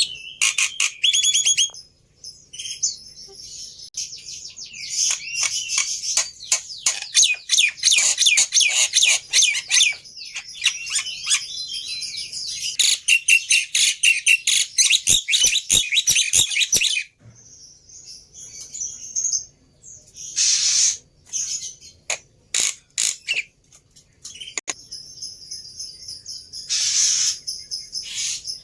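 Black-winged myna (jalak putih) calling: a long, fast run of chirps and whistled notes, then after a pause a few sparser harsh, rasping screeches.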